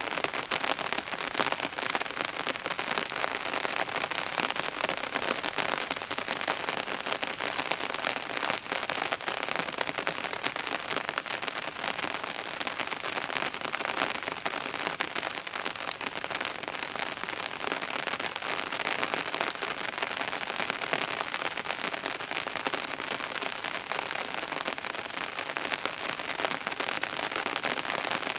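Steady rain falling and pattering on surfaces, a dense even hiss of many small drop ticks.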